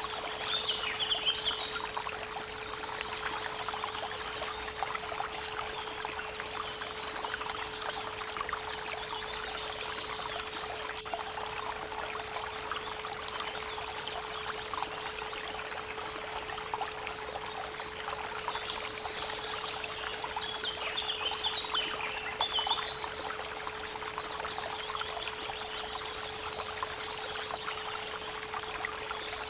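Creek water trickling and splashing, with birds chirping in short bursts now and then, over a steady 432 Hz pure tone.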